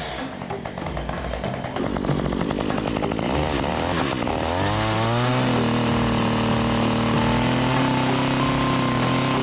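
STIHL MS 194 TC two-stroke chainsaw running, its engine speed wavering unevenly for the first few seconds, then rising at about five seconds in and holding steady.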